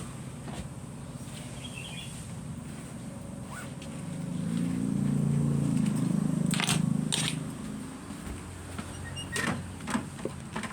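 A low engine hum that swells for a few seconds in the middle, then eases, with a few sharp knocks near the end.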